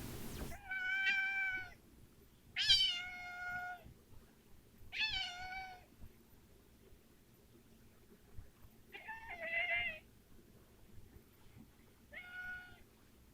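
Domestic cat meowing five times, each call about a second long with gaps between. Several calls open with a falling slide in pitch, and the fourth wavers.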